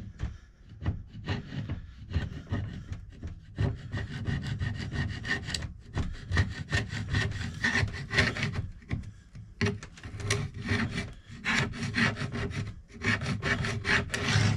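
Sandpaper rubbed by hand over the painted wooden surface of a dresser in rapid back-and-forth strokes, taking out scratches in the paint, with a few short pauses.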